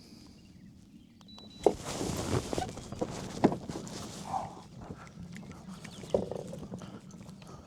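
Handling noise aboard a plastic fishing kayak: three sharp knocks, about two seconds apart, with rustling and scraping between the first two.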